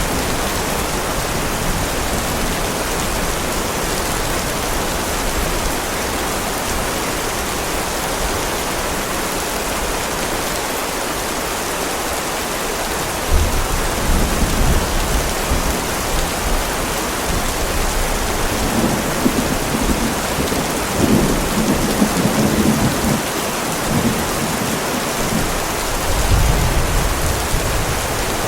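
Heavy rain falling steadily, with thunder: a sharp low crack about halfway through that rumbles on, and another low rumble near the end.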